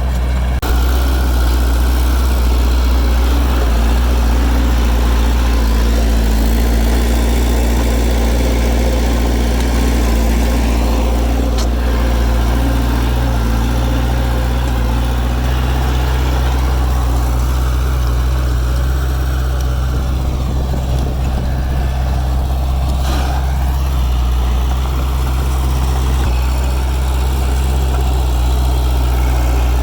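Heavy construction machine's diesel engine running steadily at a low, even pitch, with a brief click partway through.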